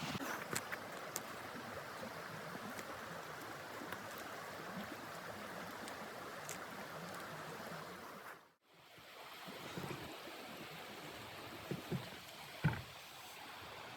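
Blizzard wind blowing steadily in a rushing hiss, broken off for a moment partway through, with a few scattered clicks and a couple of short knocks near the end.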